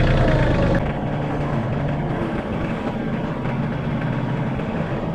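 Heavy-equipment engine running steadily; about a second in the sound drops and turns duller all at once.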